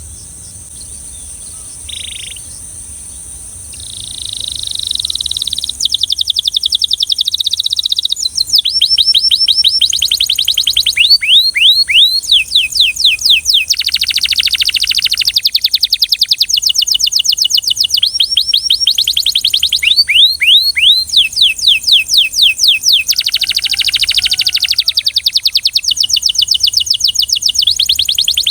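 Belgian canary singing: a soft high trill at first, then from about four seconds in louder, fast rolls of rapidly repeated notes, many sweeping down in pitch, running on in long phrases.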